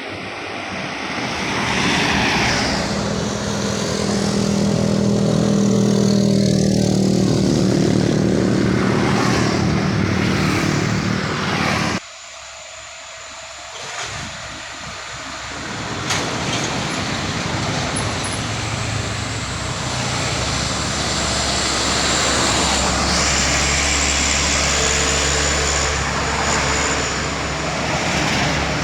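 Loaded trucks labouring up a steep bend, engines running hard under load as each one passes. The sound cuts off suddenly about twelve seconds in, and a second truck builds up with a deep low rumble.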